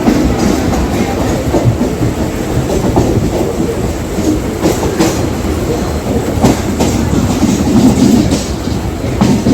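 Mumbai suburban local electric train running at speed: a continuous loud rumble with the wheels clacking irregularly over the rail joints.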